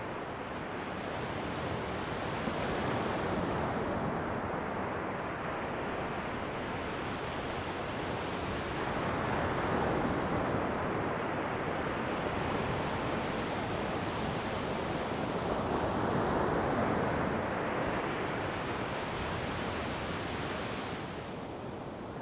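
Ocean waves breaking and washing up the shore, a continuous rushing surf that swells and fades four times, each surge lasting a few seconds.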